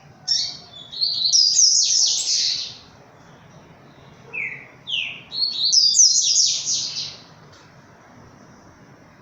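A songbird singing two loud phrases of rapid high notes, each a couple of seconds long, with a pause of about a second and a half between them.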